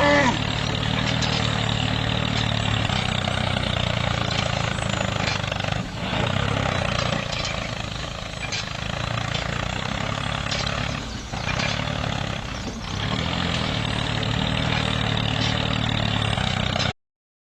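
A homemade mini tractor's small motor running steadily, with a couple of brief dips in its sound.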